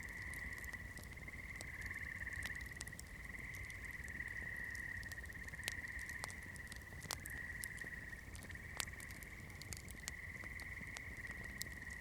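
Campfire crackling, with sharp pops scattered irregularly, over a steady high-pitched trilling chorus that runs without a break.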